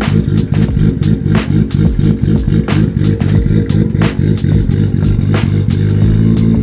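BMW B58 turbocharged inline-six running through a straight downpipe with no catalytic converter, idling unevenly with a sharp crack about every second and a half. Near the end it settles into a steady, even note. The uneven idle is the sign of a standalone ECU that is not yet tuned.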